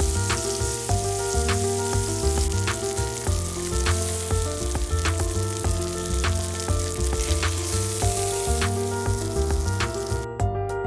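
Chicken breast sizzling in bacon fat in a frying pan, a steady hiss that cuts off abruptly near the end, over soft background music.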